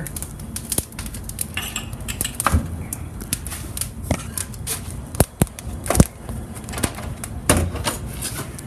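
Wood being loaded into a wood stove: irregular knocks and clanks of logs against the metal firebox, with sharp crackles, over a steady low hum.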